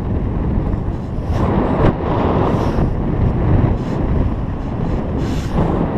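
Wind buffeting the microphone in paraglider flight, a steady rushing noise that swells with stronger gusts about a second in and again near the end.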